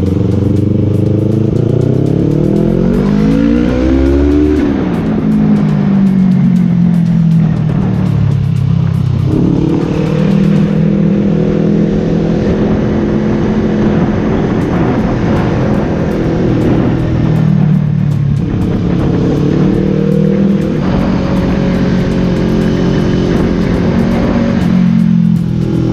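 Yamaha R3's parallel-twin engine running through its exhaust. It is revved up and back down a few seconds in, then held at steady engine speeds that shift slightly now and then.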